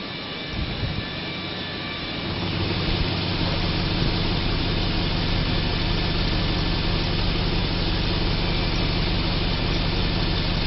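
The 2006 Chevrolet Tahoe's 5.3-litre V8 running at a steady idle, getting louder about two to three seconds in and then holding even.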